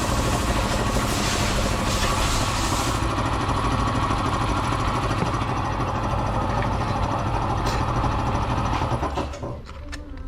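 A motor-driven machine running loudly and steadily with a rattling beat, then shutting off about nine seconds in.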